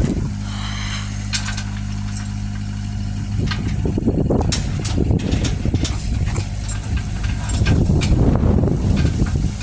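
An engine running steadily at idle. From about three and a half seconds in, rougher rumbling and scattered knocks and clanks are heard over it.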